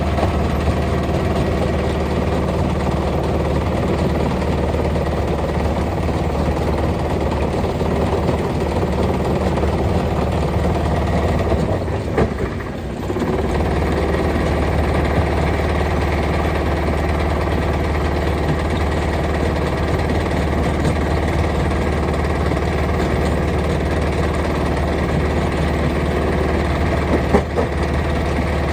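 Heavy machinery at a rock-crushing site running steadily with an engine-like drone. The sound drops briefly about halfway through and then carries on as before, with a couple of small knocks near the end.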